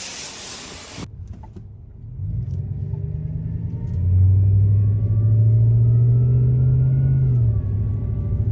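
Pickup truck engine pulling away: it comes in about two seconds in, grows louder and holds a steady pitch, then drops in pitch near the end at a gear change. Before it, about a second of steady hiss that cuts off suddenly.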